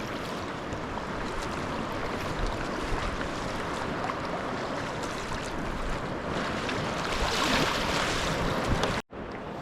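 Sea water washing and splashing around a sea kayak, with wind on the microphone. The wash swells louder near the end, then the sound cuts out abruptly for a moment.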